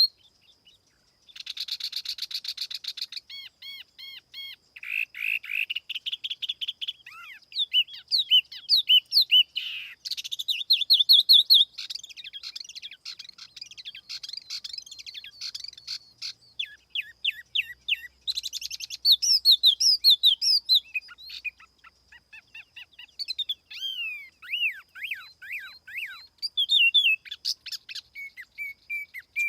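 Tiểu mi songbird singing a lure song: a fast, varied run of high chirps, trills and sliding whistled notes with brief pauses, including a rapid buzzy rattle a couple of seconds in.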